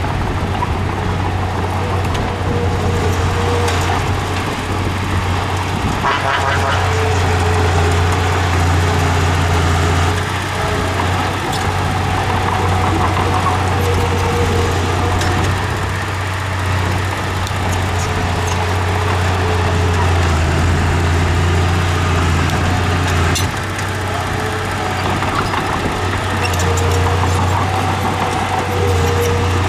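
Heavy construction machine's diesel engine running steadily with a strong low drone, easing off briefly twice and coming back up, with scattered metallic clanks.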